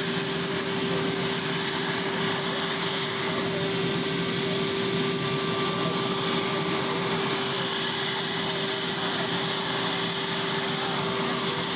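Marine One helicopter's turbine engines running on the ground, a steady rush with a constant hum and a high whine that do not change.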